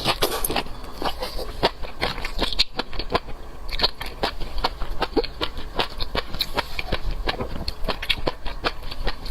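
Close-miked chewing and eating sounds: irregular wet, crisp mouth clicks and smacks, several a second, over a low steady hum.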